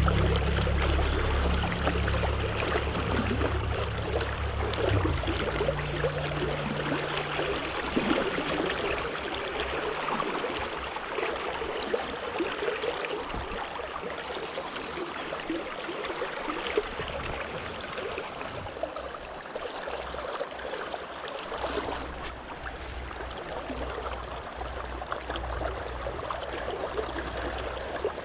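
A trout stream running and babbling steadily over its bed. A deep low rumble sits under it for the first few seconds and comes back near the end.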